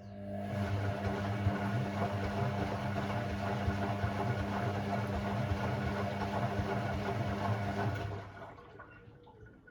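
Hoover Sportswear 1300 AI130 washing machine taking in water: the inlet valve hums steadily over rushing water for about eight seconds, then shuts off.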